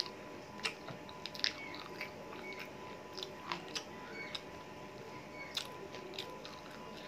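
A person chewing and biting chicken leg meat close to the microphone, with irregular wet mouth clicks and smacks.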